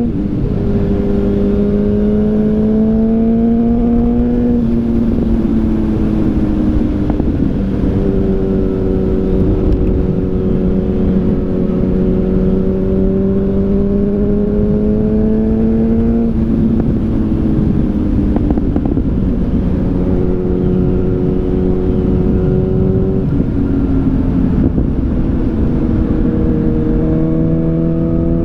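Yamaha FZ8's inline-four engine through an SC Project aftermarket exhaust, running at road speed with wind rush. Its pitch climbs slowly under steady throttle and drops back several times, at about 4, 16, 23 and 27 seconds in.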